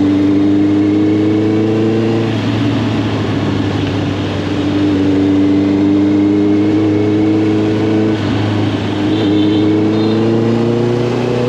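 Honda CB650R's inline-four engine through an Arrow Thunder full aftermarket exhaust, riding under gentle acceleration: the note climbs slowly in pitch, with a gear change about two seconds in and another about eight seconds in. Wind and road noise run underneath.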